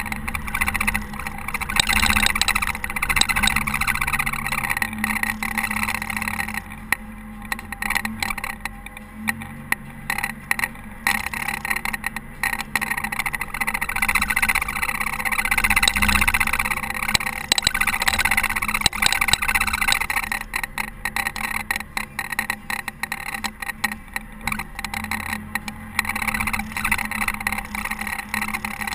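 Caterpillar TH330B telehandler's diesel engine running steadily while plowing snow, with many short clicks and rattles and the level rising and falling.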